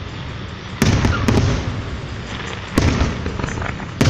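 Aerial firework shells bursting overhead: three sharp bangs about two seconds apart, each followed by a low rumble.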